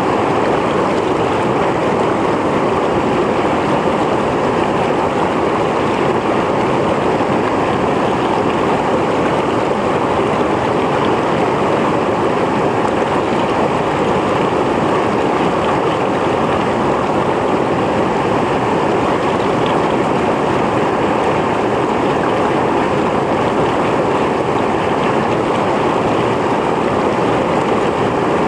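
Mountain stream flowing over rocks: a steady, even rush of water without pause or change.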